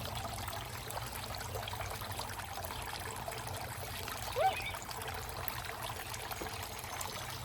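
Water trickling steadily from a small solar-powered garden fountain. A short rising squeak is heard about four and a half seconds in.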